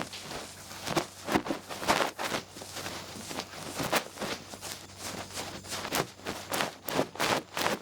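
Feather-tufted ear pick brushing and rustling against the microphone in irregular strokes, about two a second.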